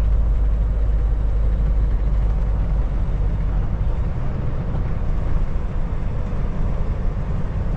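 Steady low drone of a Kenworth T680 semi truck's engine and road noise, heard inside the cab while driving; the deepest rumble eases about halfway through.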